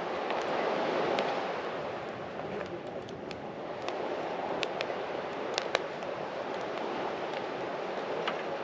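A steady rushing noise with scattered sharp pops and crackles, a dozen or so spread irregularly through it.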